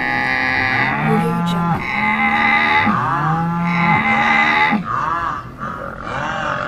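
Cattle mooing: several long, drawn-out moos one after another, each bending up and then down in pitch.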